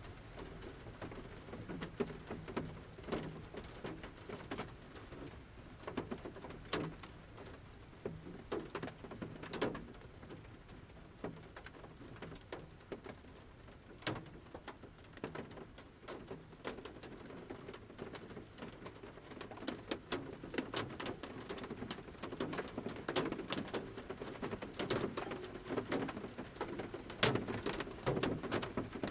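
Large raindrops from the forest canopy striking the metal roof of a camper van at irregular intervals, heard from inside the van. The drops come thicker in the second half. A pigeon coos low and repeatedly under the drops, mainly toward the end.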